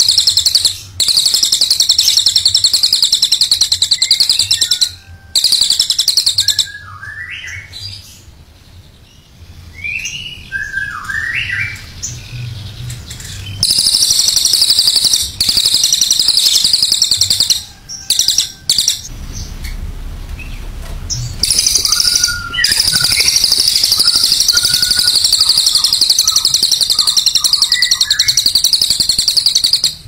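Songbird singing: long, very fast high trills in several stretches, broken by short pauses, with shorter chirping notes in between.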